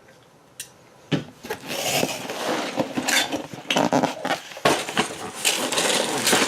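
Loose K'nex plastic pieces clinking and rattling in a bag as it is handled, starting about a second in as a dense, irregular clatter.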